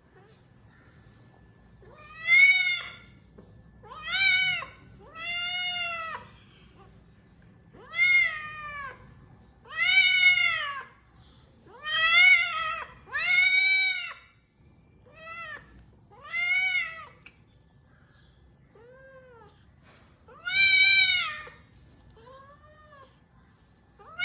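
A cat meowing over and over: about a dozen separate meows, each rising then falling in pitch, with short pauses between them and fainter, shorter meows near the end.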